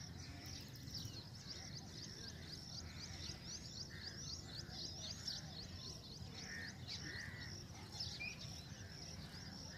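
Birds chirping outdoors: a steady run of quick, high chirps, several a second, with fainter lower calls and a low background rumble.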